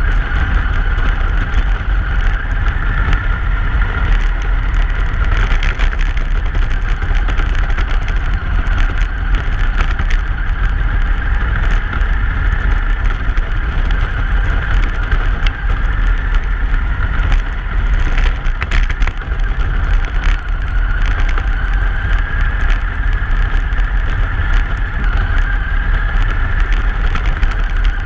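Truck driving along: a steady low rumble with a constant hum higher up, and a few brief clicks or knocks.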